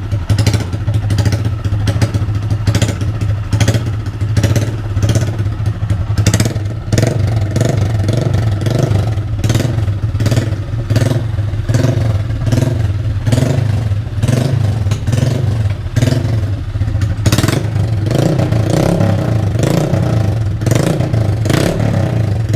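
Honda CG 160's single-cylinder four-stroke engine running with only the bare header pipe and no muffler, very loud, with sharp exhaust cracks recurring every second or so.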